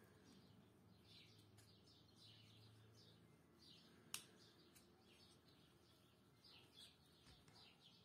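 Near silence with faint, short chirps in the background, like small birds, and a single sharp click about halfway through.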